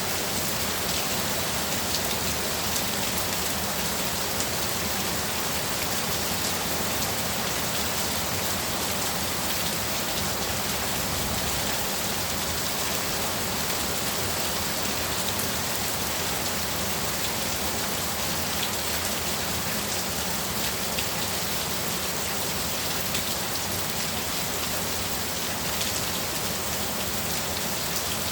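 Heavy rain pouring steadily: a dense, even hiss full of small drop impacts.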